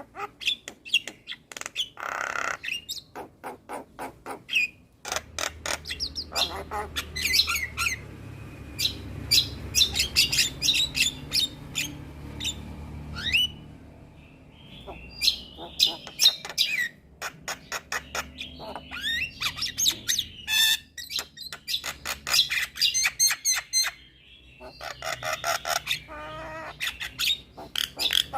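Javan myna singing a long, varied song: fast runs of clicks and chattering notes mixed with short whistled glides and harsh squawks, with only brief pauses.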